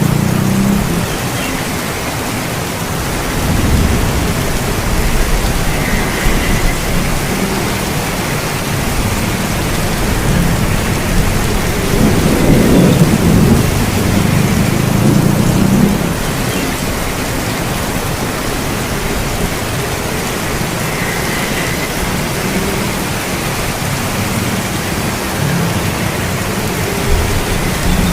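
Heavy rain falling steadily, with thunder rumbling low twice: a short roll a few seconds in and a longer, louder roll around the middle.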